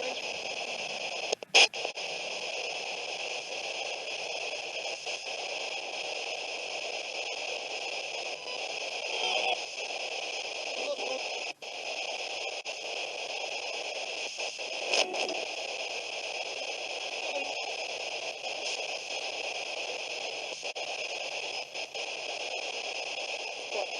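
Steady radio static hiss, broken by a few sharp clicks and brief dropouts, with a short louder crackle about fifteen seconds in.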